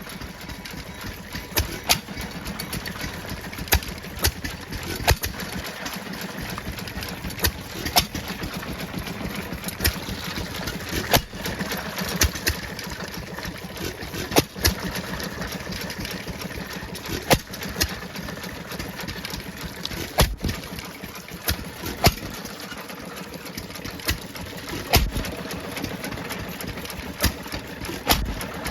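Stationary engine firing with a sharp bang every one to three seconds at uneven intervals, the irregular firing typical of a hit-and-miss governor. A steady clatter of running engines continues underneath.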